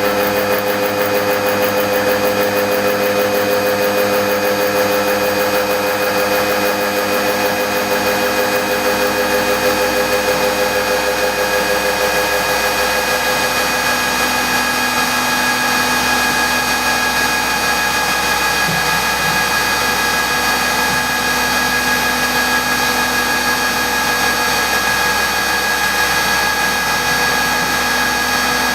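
CNC milling machine running a gear-milling cutter, a steady mechanical whine of several held tones whose pitch pattern shifts about halfway through.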